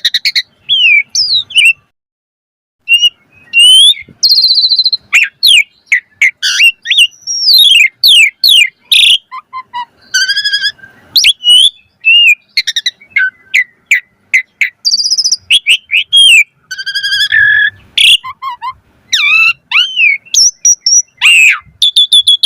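Asian pied starling (jalak suren) singing a long, varied song of whistles, rising and falling slurred notes and quick chattering phrases, with a short break about two seconds in.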